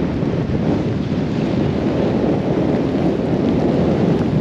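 Gale-force storm wind buffeting the microphone in a loud, steady rumble, with heavy rain.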